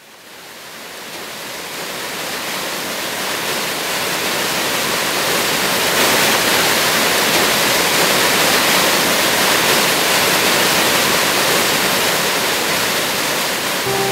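Steady rush of falling water, a waterfall, fading in over the first several seconds.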